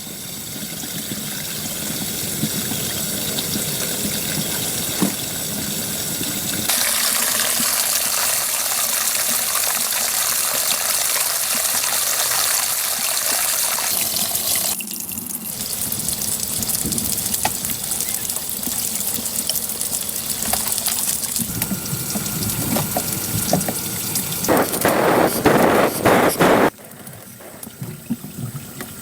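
Water running and splashing, a steady rushing noise that changes abruptly several times, with louder irregular splashes near the end.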